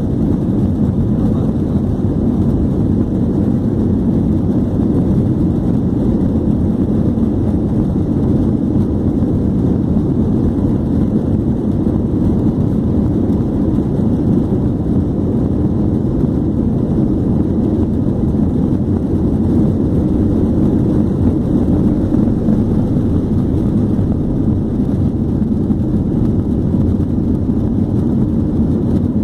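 Jet engines of an Airbus A321 running at high power during takeoff, heard inside the cabin as a steady, loud, low rumble.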